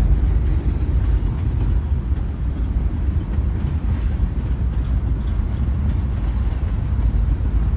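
Freight train cars rolling past on the rails: a steady low rumble of steel wheels on track.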